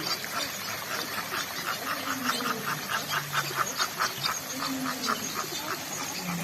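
Birds calling: a rapid run of short repeated notes, about five or six a second, through the middle, with lower drawn-out calls sliding up and down beneath.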